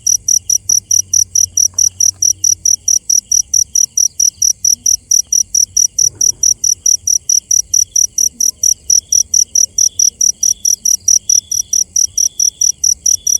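Crickets chirping at night: a steady, high, evenly spaced chirp at about four pulses a second, with a second, lower insect call underneath that turns into longer notes in the second half.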